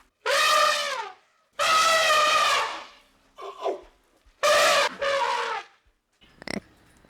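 An animal calling four times in a row, each call a loud, drawn-out, horn-like cry of under a second to just over a second, with short pauses between.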